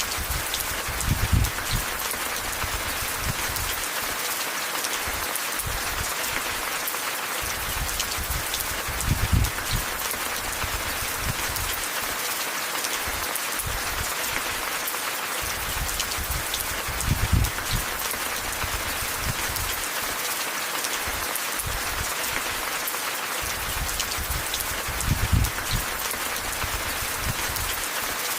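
Steady rain falling, an even hiss scattered with faint drop ticks. Four short, low rumbling swells rise out of it about every eight seconds.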